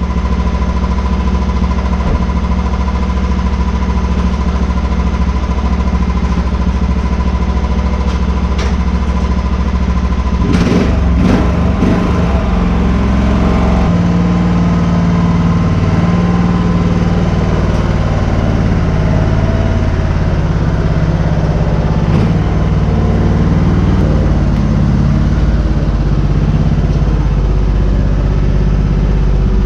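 A vehicle engine running steadily under load, its note shifting about 14 seconds in. A few sharp clicks or knocks come around 9 to 12 seconds in.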